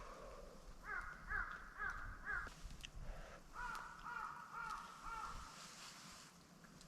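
A bird calling in two runs of short, evenly repeated calls, about four in the first run and five in the second, the second run a little lower in pitch.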